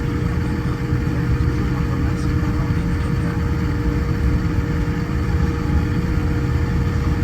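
Steady aircraft cabin noise on a Boeing 787-9 Dreamliner: an even low rumble with a constant hum.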